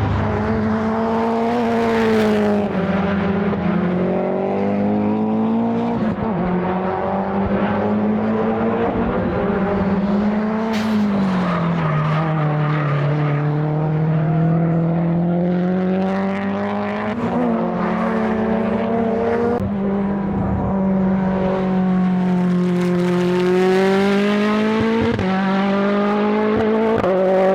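Race car engine running under load, its pitch rising and falling steadily with the car's speed, with a few abrupt jumps in pitch at gear changes and a sharp crack about eleven seconds in.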